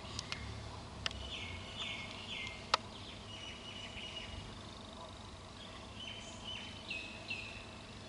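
Bird chirps: short notes, each falling in pitch, in runs of two or three, over a low outdoor hum. A few sharp clicks, the loudest about three seconds in.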